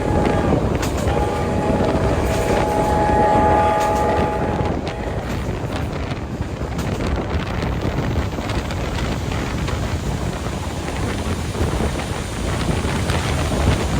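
Steam train whistle blowing a long held note, broken briefly just after the start and stopping about five seconds in, over the steady rumble of the train running. After the whistle, only the running noise and wind remain.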